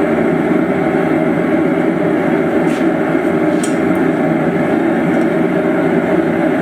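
A blacksmith's forge running with a steady, even roar and no hammer blows, apart from a couple of faint clicks near the middle.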